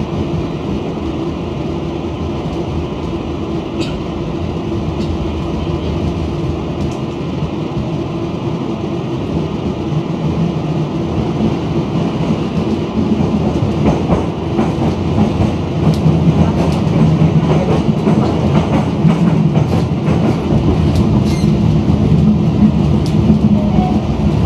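Running noise of an electric commuter train heard from inside the carriage: a steady rumble of wheels on rails with a few faint clicks, growing louder about halfway through.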